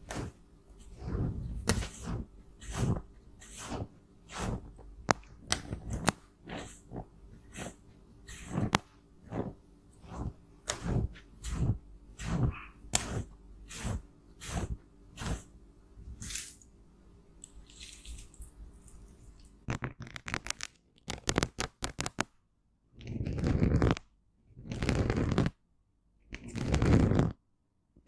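Cosmetics being crushed and broken up: a long run of short crunching, cracking strokes that quickens into a rapid clicking rattle, then four longer scraping or squishing strokes of about a second each near the end.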